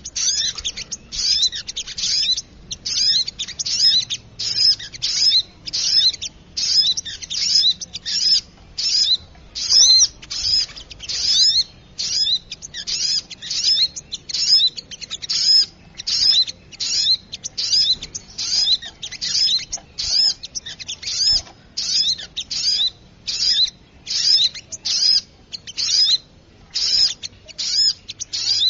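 Bird-lure recording of a spiderhunter (sogok ontong) calling noisily: short, sharp, high-pitched chirping bursts repeated steadily, about three every two seconds, without a break.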